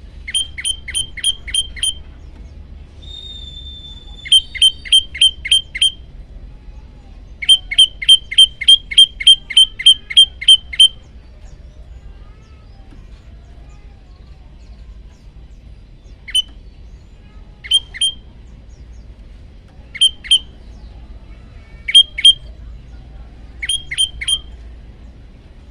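Prenjak lumut songbird calling loud, sharp repeated chip notes in rapid runs of about four a second, the longest run near the middle. In the second half the notes come singly or in twos and threes with pauses between them.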